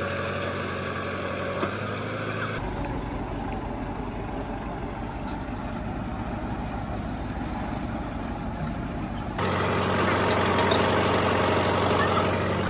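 Heavy diesel engines running at a steady idle, broken by sudden changes of sound about two and a half seconds in and again about nine and a half seconds in; the engine is loudest near the end.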